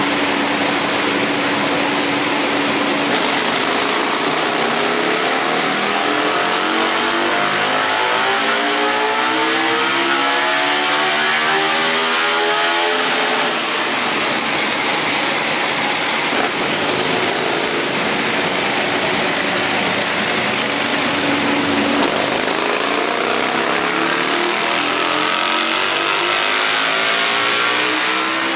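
Aprilia RSV1000's 60-degree V-twin running on a rolling-road dyno. It idles briefly, then makes a full pull with the revs climbing steadily for about nine seconds before dropping back about halfway through. After a spell at low revs, a second climbing pull begins in the last quarter.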